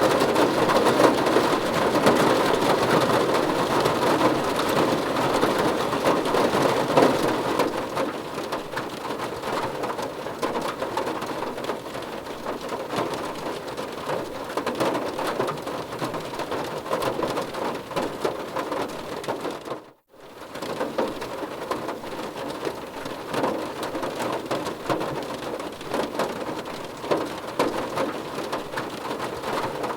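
Steady rain falling on a car's roof and glass, heard from inside the car: a dense hiss of many small drop impacts, louder for the first several seconds, with a sudden brief gap about two-thirds of the way through.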